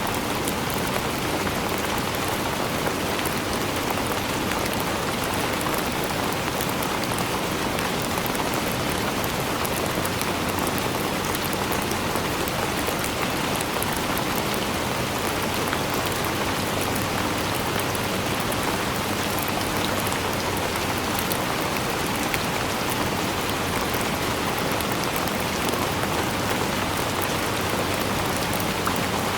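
Steady rainfall, an even hiss of rain with many fine drop ticks, unchanging throughout.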